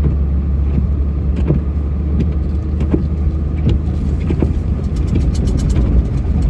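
Engine of a snowplow vehicle running steadily with a low rumble while plowing, with scattered light knocks over it.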